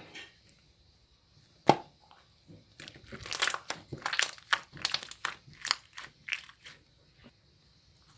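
Crunching: one sharp snap about two seconds in, then a run of crisp crunches, about two a second, for some four seconds.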